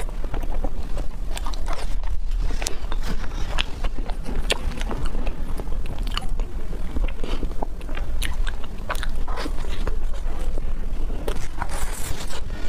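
Close-miked eating: biting and chewing soft desserts, with many sharp wet mouth clicks, over a steady low hum. A plastic wrapper is peeled off a dessert bar partway through.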